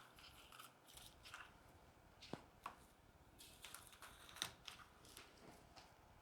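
Faint rustling and light clicks of small branches and stems being handled and pushed into an arrangement, with a few slightly sharper ticks about two and a half and four and a half seconds in.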